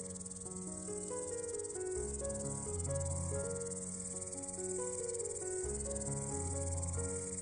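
An insect trilling steadily in a fast, unbroken pulse, over background music with a slow-changing melody and bass line.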